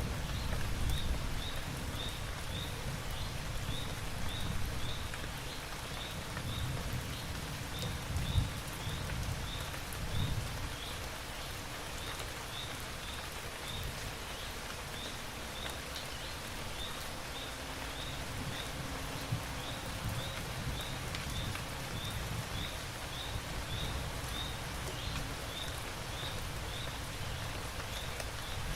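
Steady rain falling, with a low rumble of distant thunder swelling a few times in the first ten seconds or so and then dying away. A small high chirp repeats about twice a second over the rain.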